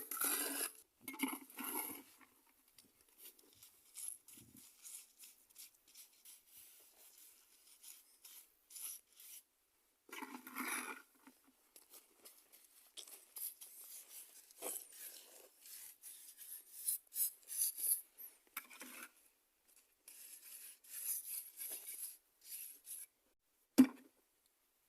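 Intermittent scraping and rubbing of a trowel working wet cement mortar, in short strokes with pauses between them, and one sharp knock near the end.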